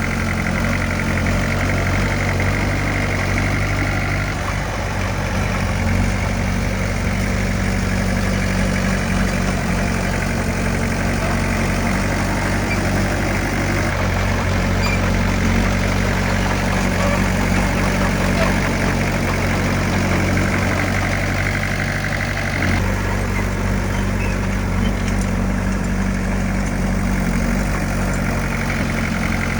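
A heavy earthmoving machine's diesel engine running steadily, with a deep, even drone. The tone shifts abruptly about 14 and 23 seconds in.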